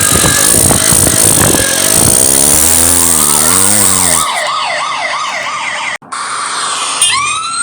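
Cartoon police car sound effects. A rough, noisy rush with a wavering low tone lasts about four seconds, overlapped by a fast-warbling siren. The siren cuts out briefly about six seconds in, and a siren wail starts to rise near the end.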